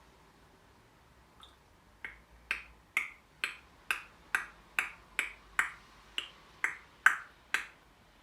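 African grey parrot making a steady run of sharp clicks, about two a second, starting with one faint click and going on for about six seconds.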